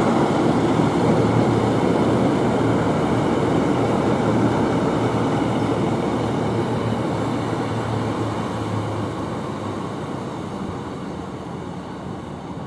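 Passenger multiple-unit train running past with a steady rumble and a low hum, fading gradually as it moves away.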